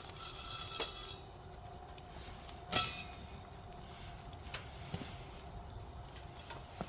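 Pellets burning in a camping wood stove: a quiet fire with a few faint, scattered clicks, the clearest about three seconds in.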